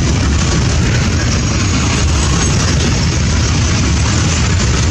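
Container freight train rolling past, its loaded flat wagons making a loud, steady rumble of steel wheels on the rails.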